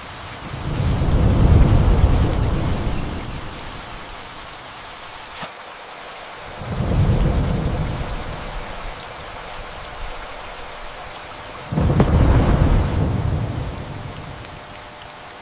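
Steady rain with three rolls of thunder: the first swells up and fades over about three seconds, the second comes about six seconds in, and the third starts suddenly near the end before dying away.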